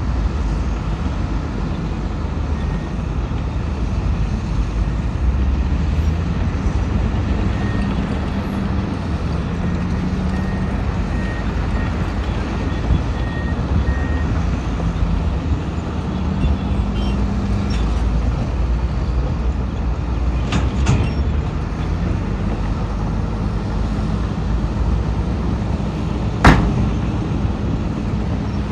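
Heavy diesel construction machinery running steadily with a low, rumbling engine note. A few clicks come about two-thirds of the way through, and one sharp metallic bang follows near the end.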